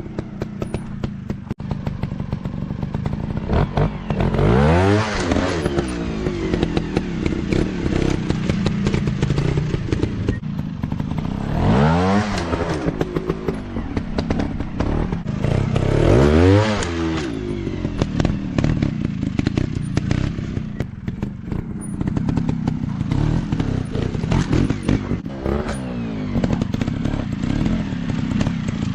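Off-road dirt bike engines running, revving up and dropping back three times, over constant clicking and clatter.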